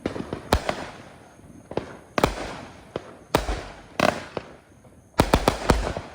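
A 200-gram consumer fireworks cake firing shots, one about every second, each followed by a short fading noise. Near the end comes a quick volley of four or five shots.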